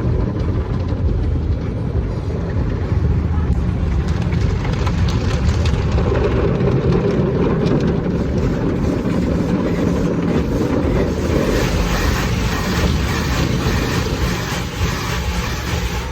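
Automatic car wash machinery running, a steady loud rushing rumble heard from inside the car, growing hissier in the upper range about two thirds of the way through.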